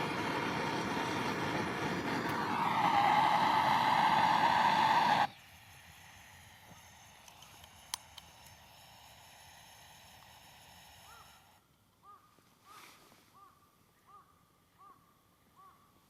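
A passing engine drones loudly, its pitch falling about two to three seconds in, then cuts off abruptly. After a quieter stretch, short bird calls repeat about twice a second near the end.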